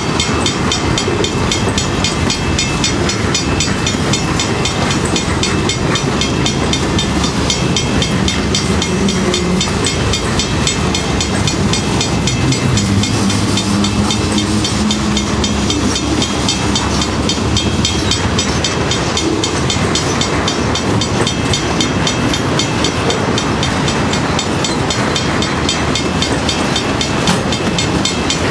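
Freight train moving in a rail yard: a steady diesel locomotive drone with railcar wheels rolling on the rails.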